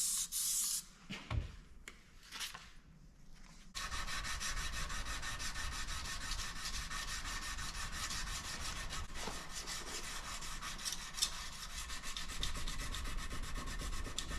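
Hand sanding a Damascus steel knife blade with 220-grit sandpaper: fast, steady back-and-forth scrubbing strokes that start about four seconds in. A short hiss comes at the very start.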